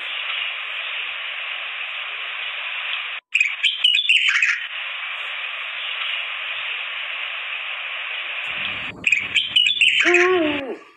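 Cockatiels chirping and screeching over a steady hissing background, with a burst of loud, sharp calls about three and a half seconds in. Near the end, after a cut, a different bird gives a short call that falls in pitch.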